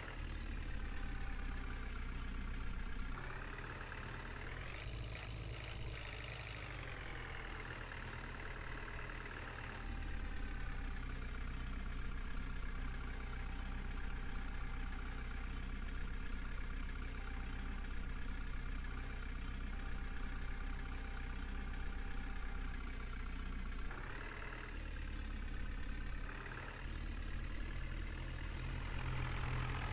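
Diesel engine of a JCB backhoe loader running steadily. It revs up and back down a few seconds in, and again near the end, as the machine works loading stones.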